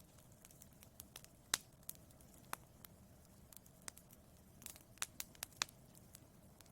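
Wood fire in a fireplace crackling: irregular sharp pops and snaps over a faint low rumble of the flames, with a cluster of pops about five seconds in.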